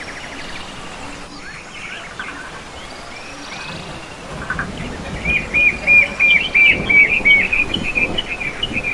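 Birds calling: faint scattered chirps, then about halfway a loud run of six quick, identical ringing notes, followed by a jumble of chirps.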